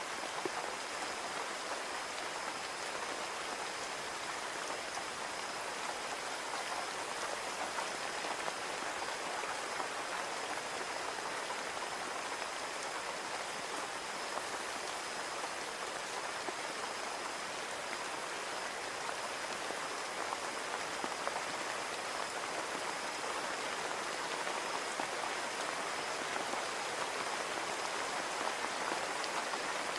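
Steady rain pattering on a window pane, a dense, even hiss of drops that neither swells nor fades. A faint steady high tone sits underneath.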